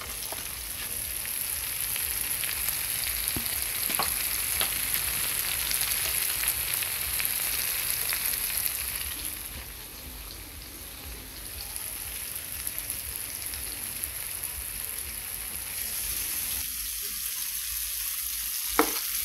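Sliced tofu and straw mushrooms sizzling steadily as they fry in oil in a pan, briefly fainter about ten seconds in.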